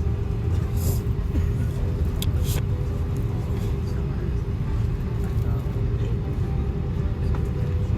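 Steady low rumble and hum inside the cabin of an Airbus A330-200 after landing, with a few light clicks in the first few seconds.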